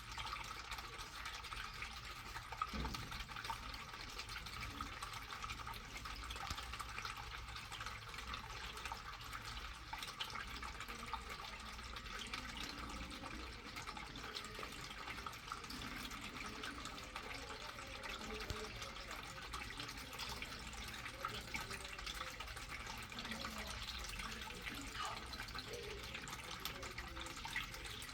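Water splashing and running steadily from popped water balloons, with many small drips and clicks and now and then a slightly louder pop or splash.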